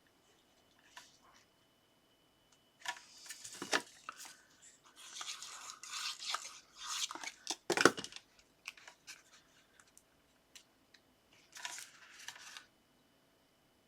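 Paper and card being handled and rubbed: irregular scratchy rustling in a few bursts, with two sharp taps, one about four seconds in and one about eight seconds in.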